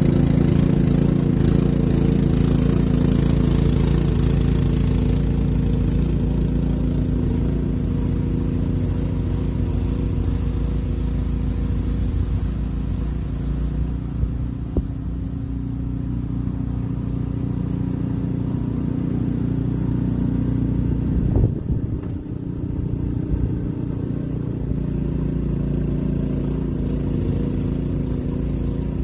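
An engine running steadily, a constant hum with no change in speed; a brief knock sounds about 21 seconds in.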